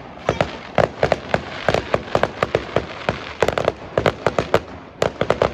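Fireworks display: rapid, irregular volleys of sharp bangs and cracks, several a second, coming in clusters.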